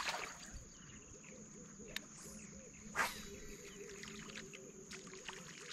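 Steady high-pitched insect trill in the background, with a couple of short sharp knocks, the clearest about three seconds in.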